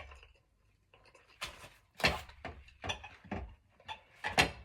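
Handling noise at a table: about five short knocks and rustles in quick succession, with the loudest near the end.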